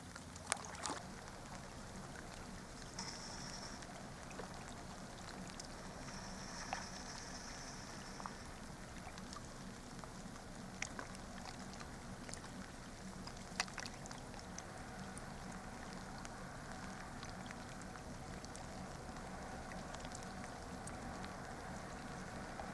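Light drizzling rain falling by the river, a steady soft hiss, with a few sharp taps scattered through.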